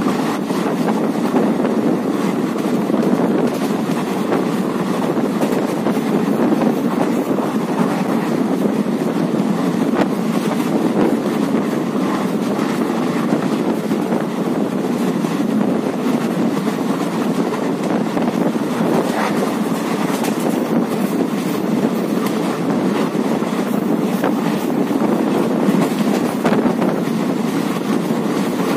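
A train running at speed, heard from an open window: a steady rumble of wheels on the rails with wind buffeting the microphone, and a few faint clicks from the rails.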